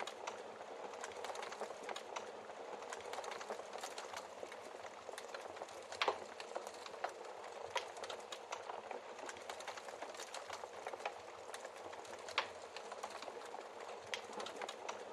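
Log fire crackling steadily, with a stream of small snaps and two louder pops, about six seconds in and again about twelve seconds in.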